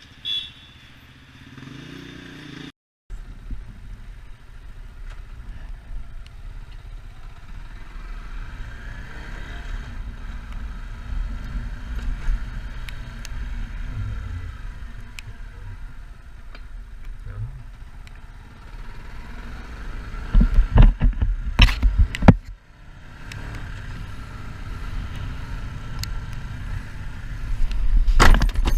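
Yamaha MT-125 motorcycle riding, its engine a low rumble under steady wind noise. About twenty seconds in, a burst of loud knocks and clatter.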